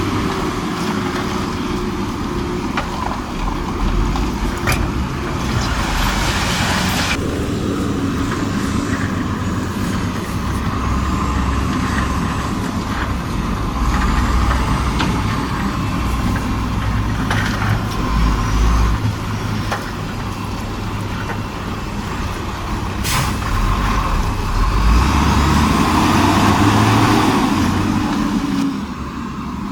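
Heavy diesel engines of a bulldozer and a dump truck running, with a steady low rumble. Longer bursts of hissing come about six seconds in and again near twenty-five seconds, and a few sharp knocks sound in between.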